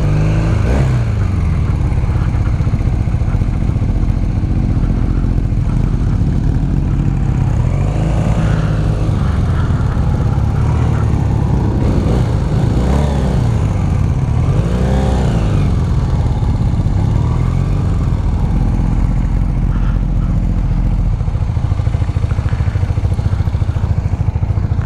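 Motorcycle engine running while being ridden, its pitch rising and falling repeatedly as the throttle is opened and closed and gears change.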